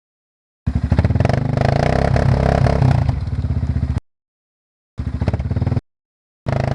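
ATV engine running and revving, heard in edited snippets. A long stretch of about three seconds cuts off abruptly, and two short bursts follow with silent gaps between them.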